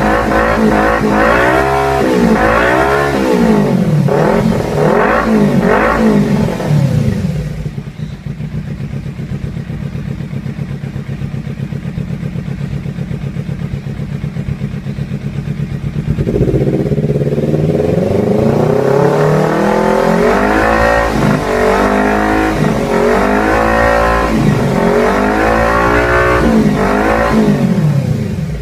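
Kawasaki Ninja 300 parallel-twin engine on an aftermarket exhaust, blipped through a series of quick revs. It drops to a steady idle for about eight seconds, then is revved repeatedly again.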